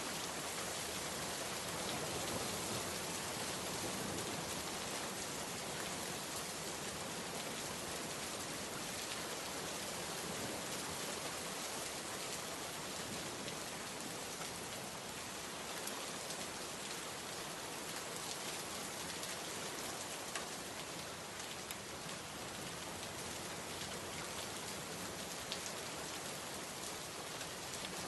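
Steady heavy rain falling and pattering on surfaces, with a few louder single drop ticks here and there.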